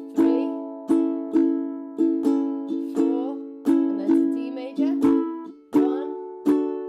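Ukulele strummed in the calypso pattern (down, down, up, down, up), each chord ringing and fading between strokes in a steady rhythm. The chord changes about two thirds of the way through.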